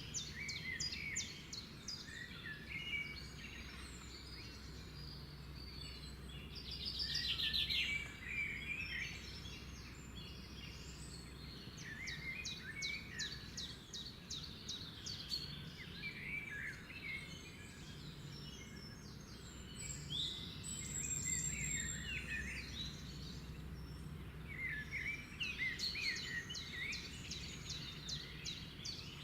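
Several birds singing and calling in overlapping phrases, including fast runs of high repeated notes, over a steady low background hum.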